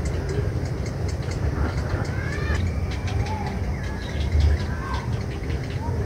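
Birds calling: high ticking chirps about three a second, with a few short rising-and-falling whistles, over a steady low rumble.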